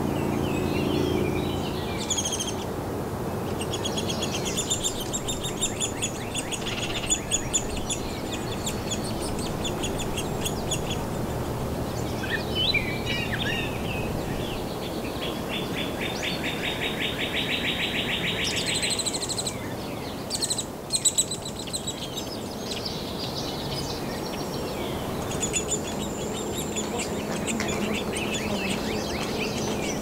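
Several birds chirping and calling, with a fast buzzy trill a little past halfway and a couple of sharp clicks about two-thirds through, over a steady low background noise.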